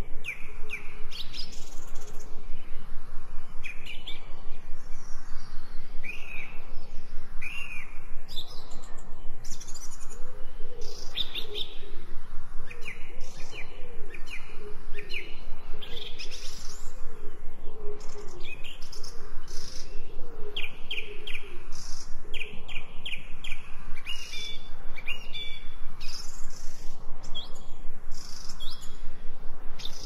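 Several birds chirping and tweeting in short, quick calls throughout, with a lower, repeated warbling call running through the middle.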